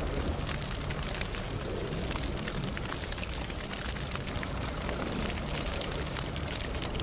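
Campfire burning: wood crackling with many small, sharp pops over a steady low rumble of the flames.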